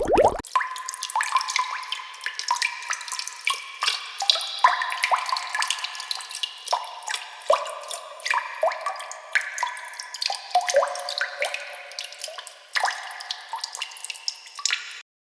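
Stock water-dripping sound effect: a quick, irregular run of small drops plinking into water, each a short pitched plip. It cuts off abruptly near the end.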